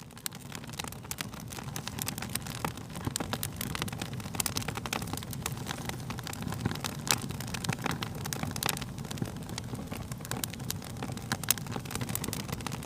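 Wood fire crackling: a steady low rush of burning with frequent sharp pops and snaps of different strengths, fading in over the first second.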